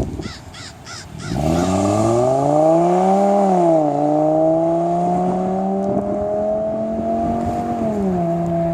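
VW Golf 2.5L inline-five with a Eurojet catback exhaust starting up about a second in: it flares up in revs, drops back, and settles into a steady fast idle that steps down slightly near the end. A few short chirps come just before it catches.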